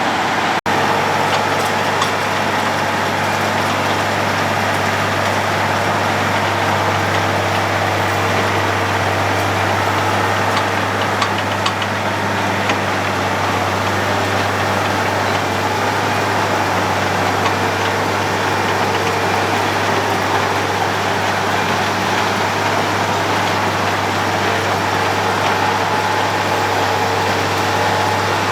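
Road planer (cold milling machine) running steadily at work: a constant deep diesel engine drone with a steady rush of noise above it, and a few faint clicks about halfway through.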